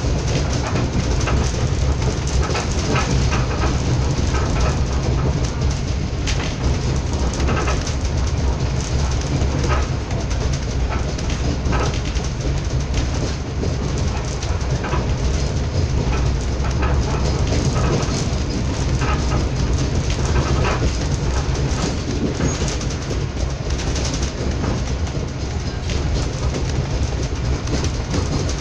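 Moving passenger train heard from inside the carriage: a steady low rumble and wheel noise on the track, with scattered clicks from the wheels over the rails.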